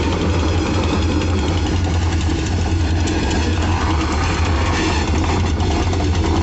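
Diesel locomotive engine running steadily as the train moves on the switching move, a constant low hum under a noisy haze.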